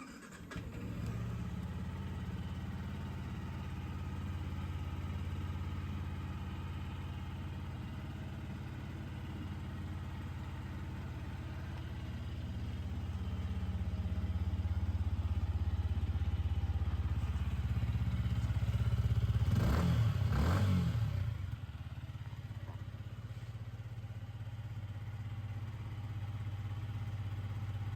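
Yamaha MT125's 125 cc single-cylinder four-stroke engine starting and idling steadily, with one quick blip of the throttle about twenty seconds in, rising and falling, then settling back to idle.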